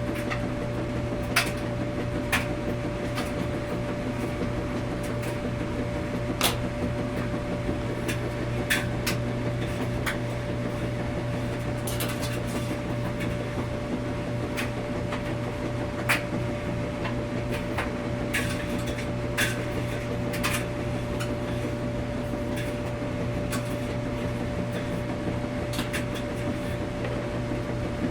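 Washing machine running with a steady low hum and a constant higher tone, with scattered light clicks and knocks every second or few.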